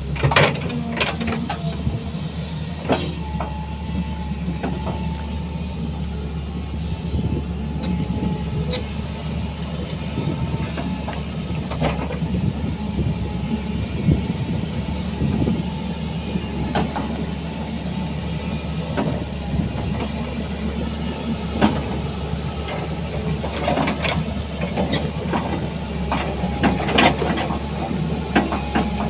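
Hitachi 200-class excavator's diesel engine running steadily, with scattered clanks and knocks throughout.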